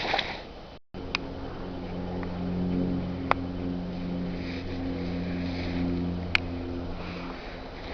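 A steady low mechanical hum with a few sharp clicks, starting after a brief cut to silence about a second in.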